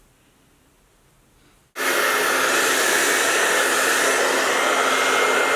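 Hand-held hair dryer that switches on suddenly about two seconds in and then blows steadily, its airflow noise carrying a constant motor hum.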